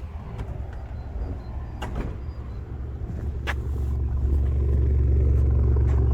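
Exhaust of a freshly rebuilt Kia Sportage G4KD 2.0-litre four-cylinder idling evenly, with no misfire. It grows louder over the first few seconds, then holds steady.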